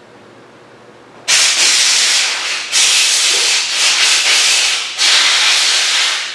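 Compressed air blown through the firing pin channel of a Mossberg 464 rifle's breech bolt to clear out crud: three long hissing blasts, the first starting about a second in, each lasting over a second.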